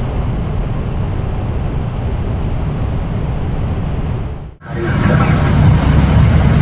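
Steady cockpit noise of an Airbus A320 in flight: a low rush of air and engine hum. It cuts out abruptly about four and a half seconds in and comes back louder, with faint steady tones over it.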